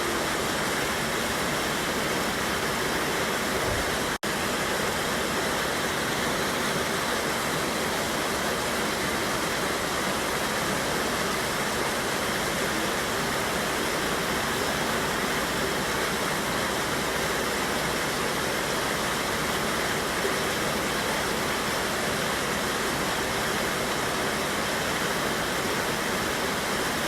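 Steady rush of a mountain river's waterfall, an even wash of falling water at all pitches, broken by a split-second dropout about four seconds in.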